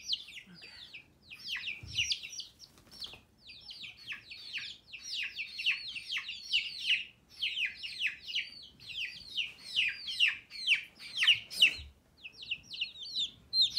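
Several baby chicks peeping continuously, a rapid overlapping stream of short, high, falling peeps, with a brief pause about twelve seconds in.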